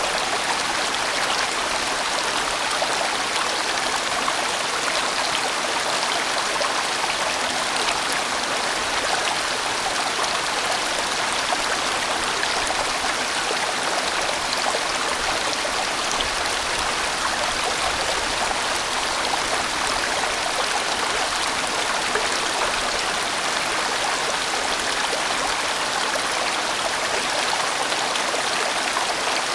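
A large valley stream flowing in broad bends: a steady, unbroken rush of water.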